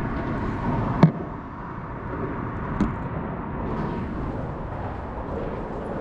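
Steady low rumble with a faint hum, broken by two sharp knocks, a loud one about a second in and a softer one near three seconds in.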